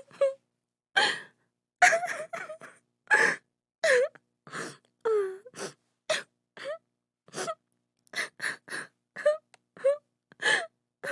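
A woman crying: short gasping sobs and whimpering wails with brief breaths in between, some cries sliding in pitch.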